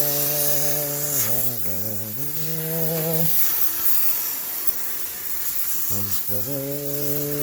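A man humming a tune in long held notes, pausing for a few seconds in the middle, over the steady hiss of a high-pressure steam sterilizer jet.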